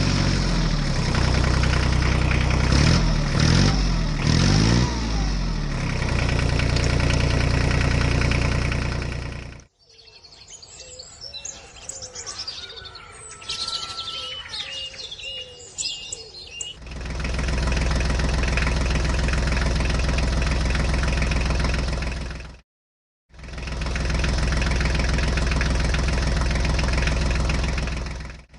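Tractor engine running steadily, revving up and down briefly a few seconds in. It cuts off suddenly for a few seconds of bird chirps with little engine, then the engine runs steadily again, broken once by a brief dropout.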